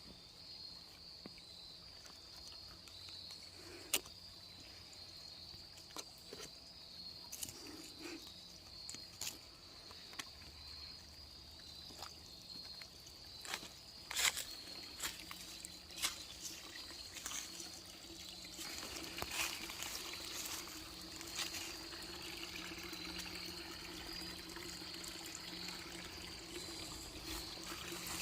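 Small stream trickling, under a steady high-pitched insect drone, with scattered sharp clicks throughout; it grows a little louder and fuller about two-thirds of the way in.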